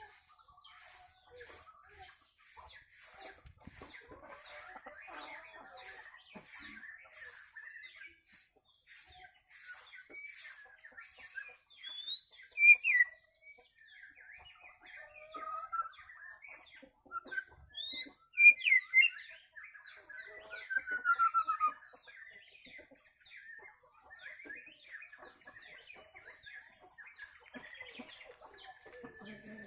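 Murai birds chirping and calling, with scattered small chirps throughout and loud, sharp whistled calls about twelve and eighteen seconds in, followed by a falling whistle.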